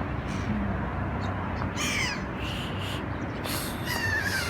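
Gulls calling: harsh, downward-bending calls about two seconds in and again near the end, over a steady low background rumble.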